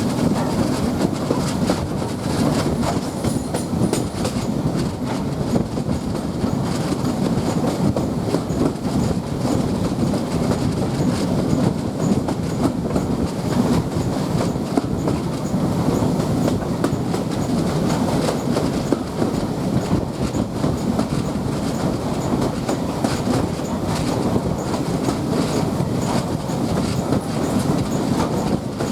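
Train running along the line, with a steady rumble and wheels clicking over the rail joints.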